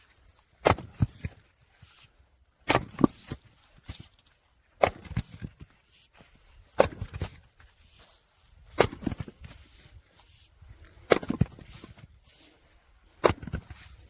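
Firewood splitting machine splitting logs: a sharp crack about every two seconds, seven in all, each followed by a short clatter of split pieces falling.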